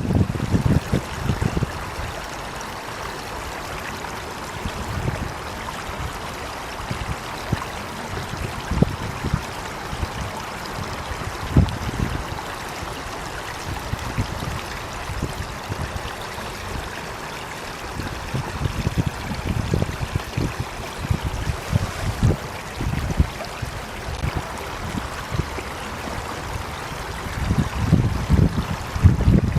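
Water flowing steadily, like a stream, with irregular low rumbling gusts that are strongest at the start and near the end.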